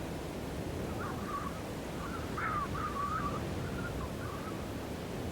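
Steady snowstorm wind. From about a second in to past the middle, a run of short, wavering, high-pitched calls or whistles sounds over it.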